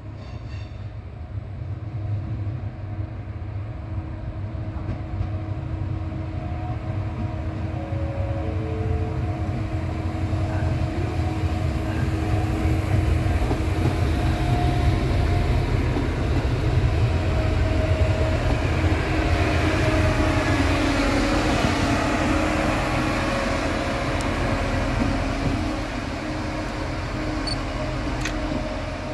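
A passenger train running on the line through the station, its rumble building gradually to a peak about two-thirds of the way in, with steady humming tones over it.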